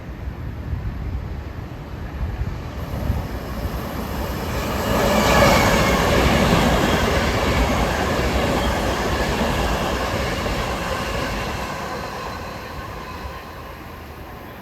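Long Island Rail Road commuter train passing: the rail and wheel noise builds to its loudest about five seconds in, then fades slowly as the train moves away.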